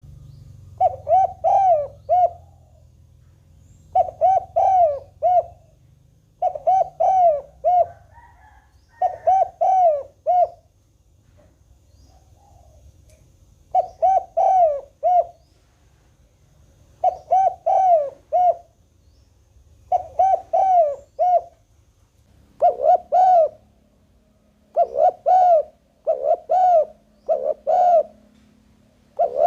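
Spotted dove cooing: a phrase of four or five low hooting notes, repeated about every two to three seconds, roughly ten times, with one longer pause near the middle.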